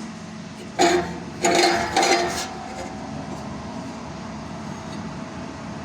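Metal parts clinking and ringing, once briefly and then for about a second, followed by a steady low background hum.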